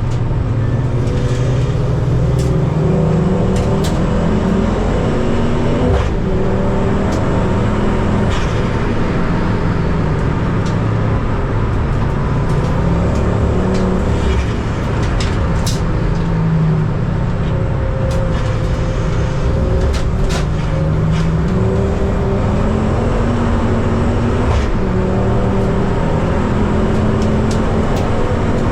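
Ford Focus ST race car engine under racing load, heard from the car. The engine note climbs repeatedly through the revs and drops back between gears and corners, with scattered sharp clicks.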